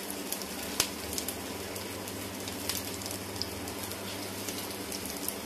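Aloo tikki potato patties shallow-frying in hot oil in a pan: a steady sizzle with scattered sharp pops and crackles.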